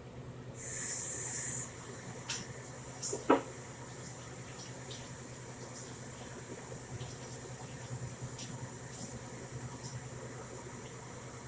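Kitchen tap gushing for about a second, then a few light clicks and one sharper knock, followed by a steady faint hiss with a low hum underneath.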